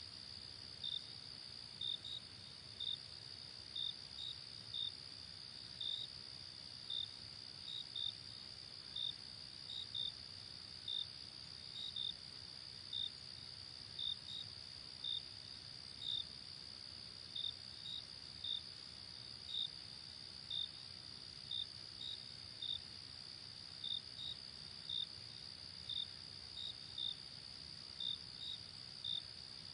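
Night insects calling in chorus: a continuous high trill, with short, sharp chirps from another insect repeating irregularly a little more than once a second.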